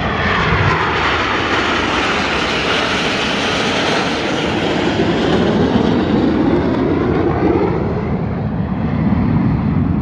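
Jet aircraft flying past low at an air show: a loud, continuous engine roar whose pitch sweeps downward as it passes.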